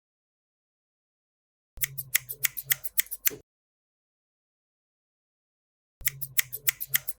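Hard plastic toy pieces clicking and tapping as they are handled, in two quick runs of sharp clicks, about five or six a second. Each run cuts in and out abruptly, with dead silence between.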